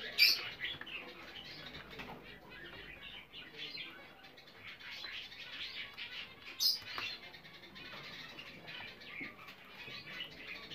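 A pair of English (show) budgerigars chattering and warbling in a continuous stream of short chirps. Two louder, sharp sounds come just after the start and about six and a half seconds in.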